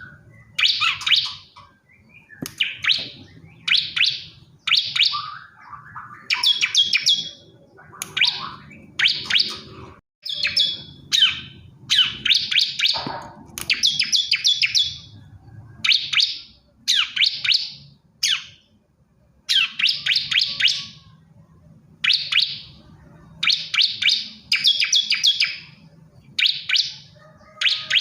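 Bar-winged prinia (ciblek kristal) male singing: repeated short bursts of rapid, high chirping notes, about one burst a second with brief pauses between.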